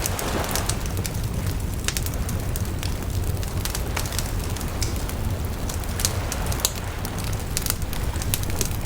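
Wood fire burning steadily with a low rumble of flames and frequent irregular sharp crackles and pops from the burning wood.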